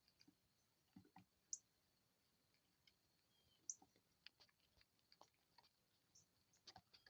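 Near silence with faint scattered clicks and taps, and two short high bird chirps about a second and a half and nearly four seconds in.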